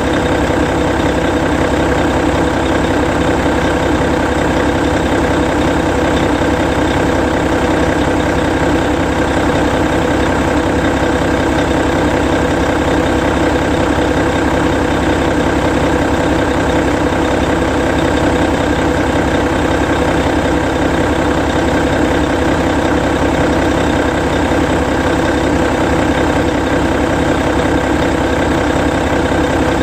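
Hino E13C 12.9-litre straight-six diesel in a Hino Selega tour bus, idling steadily while parked, with no change in pitch or level.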